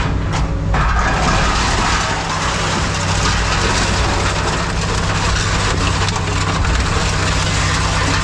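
Engine of heavy scrap-handling machinery running steadily, joined about a second in by a continuous rushing, rattling noise.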